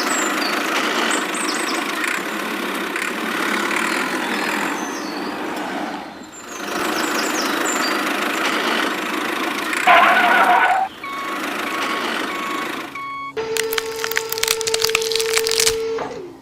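Steady motor running noise with a short drop about six seconds in. Brief pitched electronic blips follow, then near the end a steady tone with rapid clicking.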